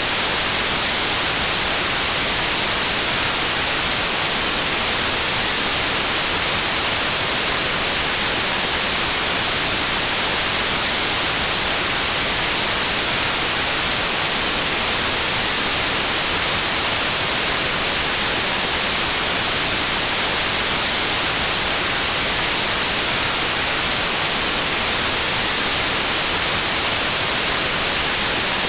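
Steady white noise: a constant, even hiss, brightest in the high end, that never changes.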